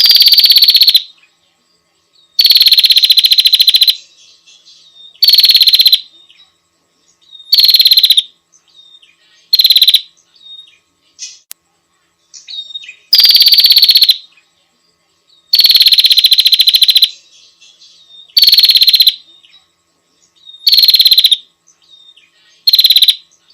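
Female prinia (prenjak) calling: about ten loud, dry, rapid ticking rattles, each lasting half a second to a second and a half and coming every two to three seconds, with faint short chirps in between.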